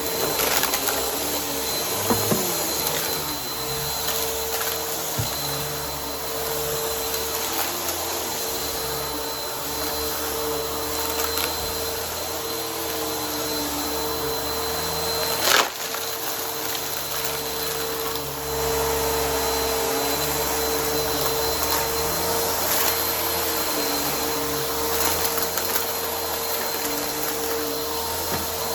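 Vacuum cleaner running steadily with its brushroll spinning, a constant whine over the motor and airflow noise. A sharp click sounds about halfway through, and the vacuum gets slightly louder a little past the middle.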